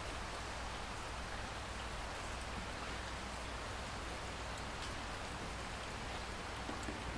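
Steady rainfall, an even hiss with a few faint drop ticks. A low rumble of thunder begins to swell at the very end.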